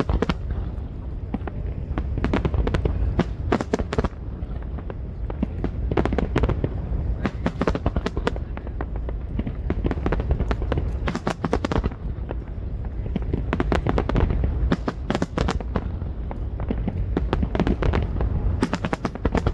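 Aerial fireworks exploding in rapid, irregular volleys, sharp bangs and crackling over a continuous low rumble, with dense clusters of reports in several places.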